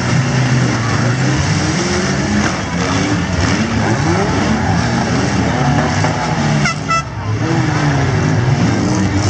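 Several mid-size cars' six-cylinder engines running and revving at once, their pitches rising and falling over one another. A brief high squeal comes about seven seconds in.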